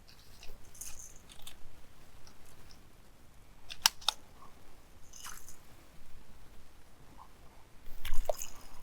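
Close handling noises: scattered rustles and light clicks, with two sharp clicks in quick succession about four seconds in and a louder rustle near the end.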